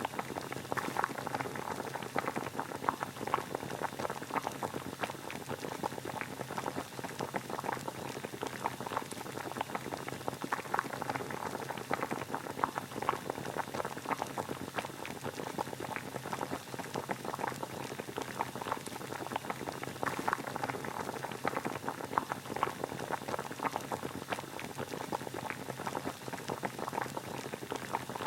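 Water boiling: a steady, dense bubbling with many small pops.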